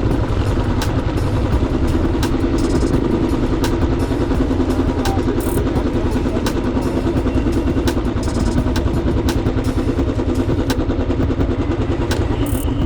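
Motorcycle engine running at a steady speed on the move, over a constant low rumble, with scattered sharp clicks.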